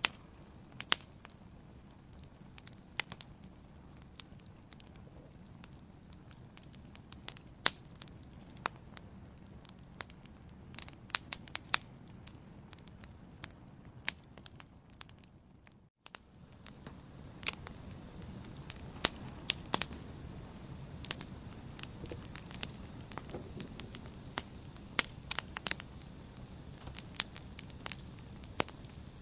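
Wood fire burning in a fireplace: irregular sharp crackles and pops over the steady rush of the flames. The sound breaks off for an instant about halfway, and the flame noise is a little louder after it.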